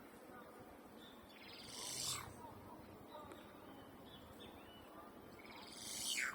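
Wild birds calling: two loud, harsh calls about four seconds apart, each ending in a quick falling note, over faint chirping of other birds.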